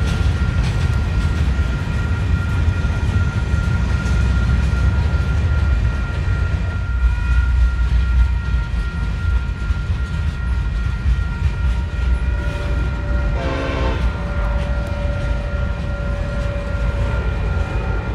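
Freight train rolling past with a steady low rumble of wheels on rail and a thin, steady high tone above it. About three-quarters of the way through, the horn of an approaching SD70AH diesel locomotive gives a short blast.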